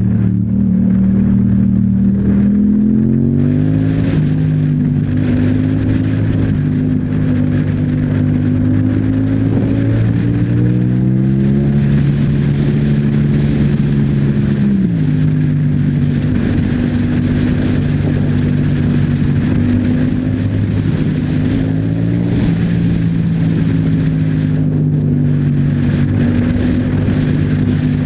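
Yamaha MT-07's 689 cc parallel-twin engine running through an Akrapovic exhaust while riding. Its pitch climbs about 3 to 4 seconds in and again about 10 to 12 seconds in, drops sharply at about 15 seconds, then holds fairly steady with a small rise near 22 seconds.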